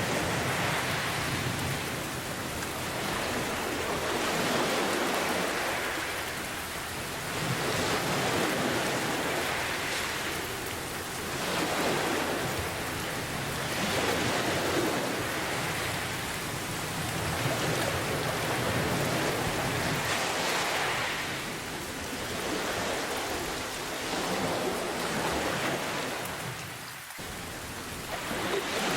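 Steady heavy rain hissing, its loudness swelling and easing every two to three seconds, with a brief dip about four seconds from the end before the full sound returns.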